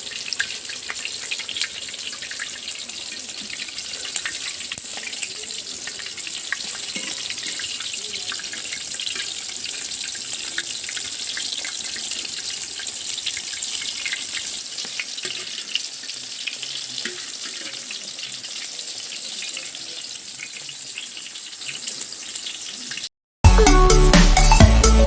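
Oat-coated chicken pieces deep-frying in hot oil: a steady crackling sizzle. Music cuts in near the end.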